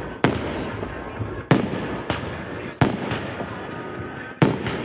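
Fireworks going off: four sharp bangs about one to one and a half seconds apart, over a steady crackle of other bursts.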